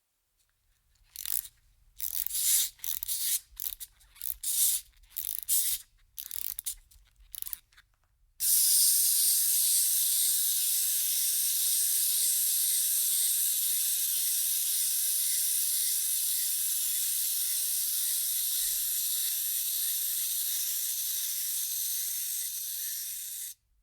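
Clockwork wind-up toy: its key is turned in about a dozen short ratcheting twists, then the spring mechanism runs with a steady high whirr for about fifteen seconds and stops abruptly.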